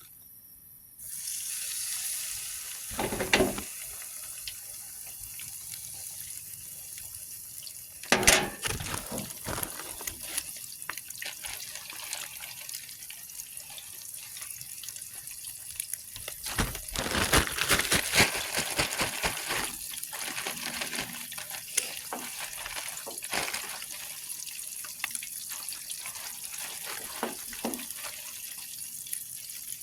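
Trout and spot fish frying in hot oil: a steady sizzle that starts about a second in as the fish goes into the oil, with occasional louder crackles and pops.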